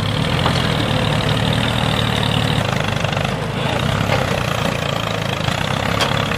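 Tractor engine running steadily at a low, even idle-like rhythm while the tractor pulls its load.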